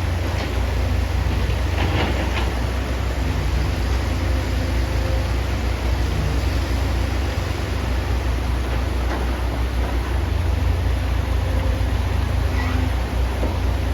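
Excavator's diesel engine running steadily with a deep, constant rumble. A few faint knocks or clanks come through now and then.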